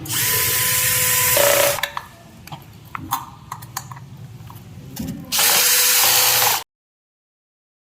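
Electric drill run in two spells of about a second and a half each, with a steady whine. Light clicks and knocks come between them, and the second spell cuts off suddenly.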